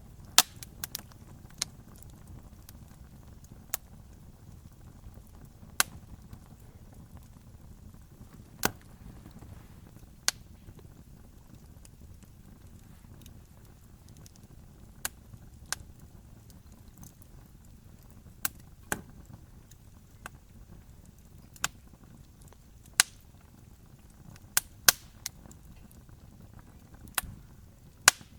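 Campfire crackling: sharp pops and snaps at irregular intervals, from a fraction of a second to a few seconds apart, over a low steady rumble.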